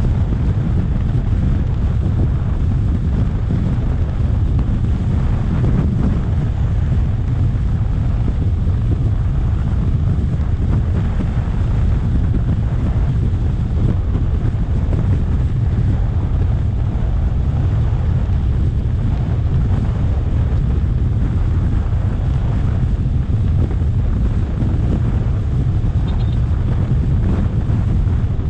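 Wind buffeting the microphone of an electric scooter under way: a steady, heavy low rumble with no engine note.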